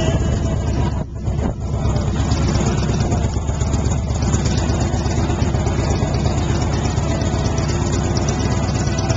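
Motorcycle engines running steadily, with a brief dip in level about a second in.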